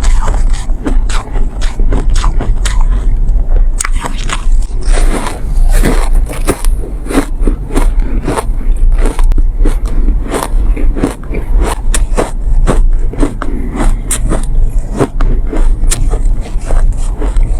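Close-miked biting and chewing of refrozen soft ice: dense, rapid sandy crunches with a crackling, slightly squeaky texture, bite after bite without pause.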